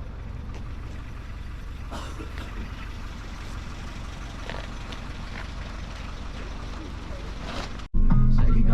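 Steady low rumble of a moving car's engine and road noise, with faint voices. Near the end it cuts off abruptly and loud music starts.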